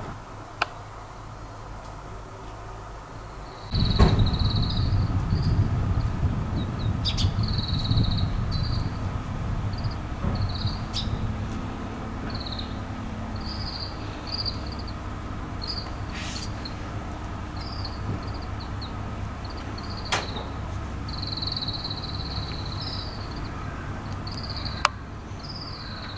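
Birds chirping in short, high notes again and again, over a steady low rumble that comes in about four seconds in.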